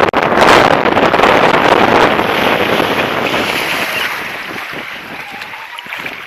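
Wind buffeting the microphone, with water rushing along a sailing boat's hull. It surges loud about half a second in, then slowly eases off.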